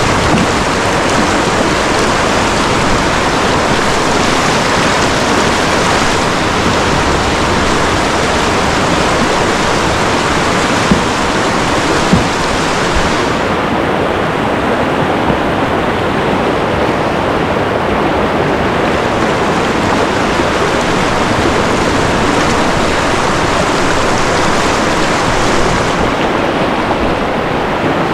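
Loud, steady rush of whitewater from a river rapid pouring around a pinned canoe, close to the microphone. The hiss turns duller for a stretch in the middle and brightens again near the end.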